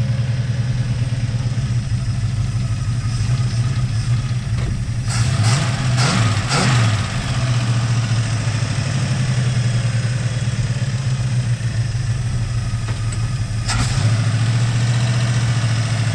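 1968 Buick Skylark's engine running steadily at low revs, rising and falling in pitch briefly about five to seven seconds in as it is given throttle. Short bursts of noise come around then and again near the end.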